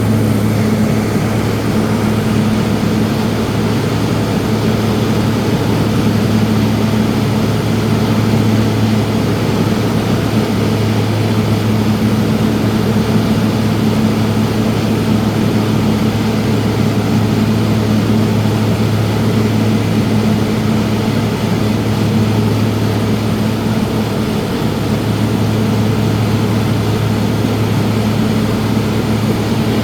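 Light propeller plane's engine and propeller running steadily in flight, heard from inside the cabin: a constant loud hum with a lower tone and its overtone over an even rush of noise.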